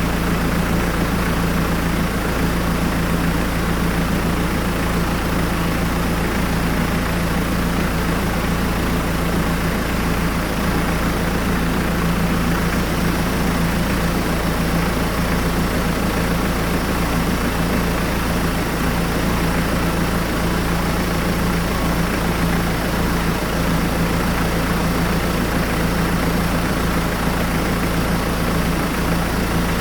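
Hyundai D4BH 2.5-litre four-cylinder turbodiesel engine idling steadily with a constant hum, run for an oil-pressure check.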